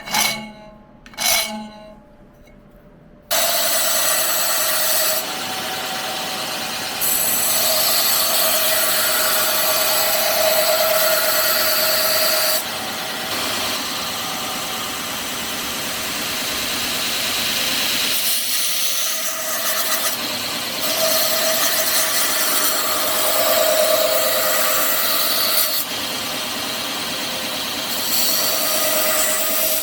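A couple of file strokes on metal, then after about three seconds a power tool starts grinding steel and runs steadily, with a ringing tone over a harsh hiss, its loudness stepping up and down several times.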